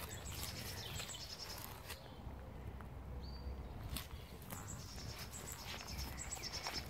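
Small birds chirping in the background: clusters of short, high calls and one brief whistle, faint against steady outdoor ambience.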